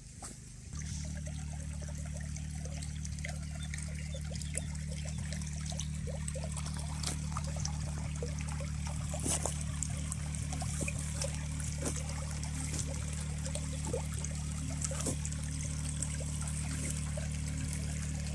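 Small stream trickling and splashing, with a steady low drone that comes in suddenly about a second in and holds under it.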